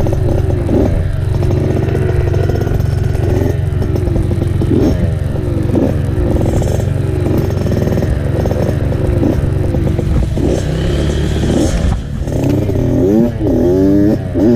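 Dirt bike engine being ridden over a trail, its pitch rising and falling again and again as the throttle opens and closes, with a low rumble underneath. The engine drops off briefly about twelve seconds in, then revs up again.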